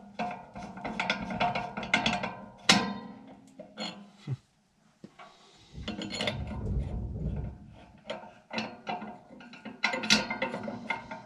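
Hand-tool work on a furnace blower motor mount: irregular metallic clicks and knocks, with a stretch of low rumbling scraping about six seconds in.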